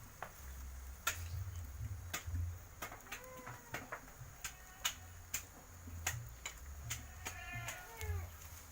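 Irregular sharp clicks and knocks, with a couple of short animal calls in the background and a low steady rumble.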